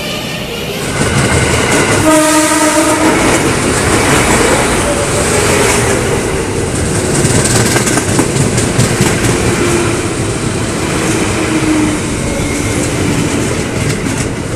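KRL commuter electric train sounding its horn once, a held tone of about a second, roughly two seconds in, then passing close with a steady rush of wheel and rail noise.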